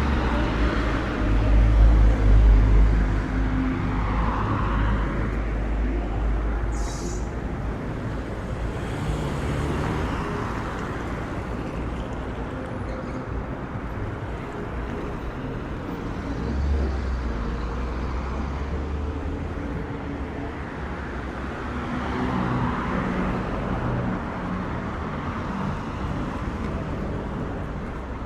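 Street traffic: cars and other vehicles passing one after another with a low engine hum, the loudest pass about two seconds in. A brief high hiss about seven seconds in.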